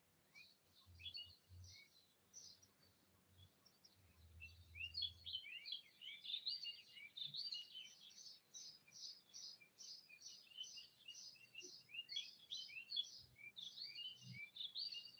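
Faint chirping of small birds: many short, quick calls that come sparsely at first and grow busier from about four seconds in.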